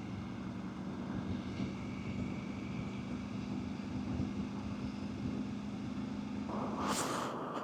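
Motorcycle engine running at a steady speed, with wind on the microphone; a louder rush of wind comes near the end.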